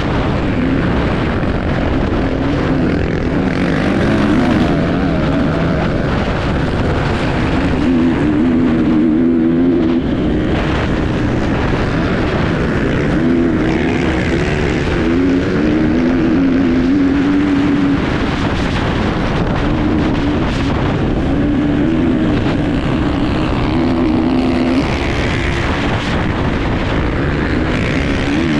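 Enduro motorcycle engine heard on board at close range, its pitch rising and falling over and over as the rider opens and closes the throttle and changes gear along the course.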